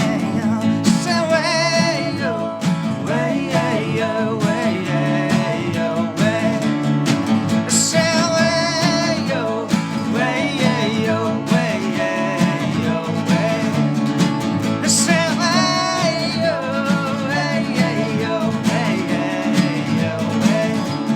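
Live band music with acoustic guitar and a wavering melody line over a steady low-end pulse.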